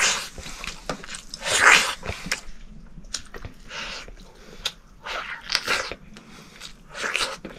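Person biting and chewing a large piece of boiled pork, with noisy chewing and mouth sounds in irregular bursts, the loudest nearly two seconds in.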